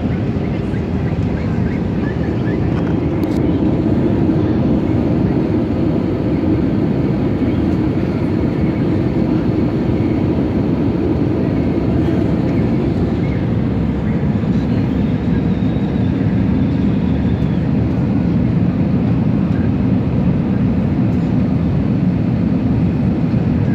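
Steady cabin noise inside an Airbus A320neo: the even rumble of the jet engines and airflow, heard from a window seat.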